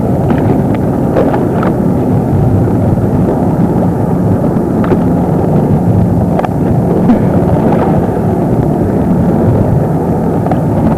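Wind buffeting the camcorder microphone, with the steady drone of a motorboat's engine underneath and the hiss of the boat moving over water.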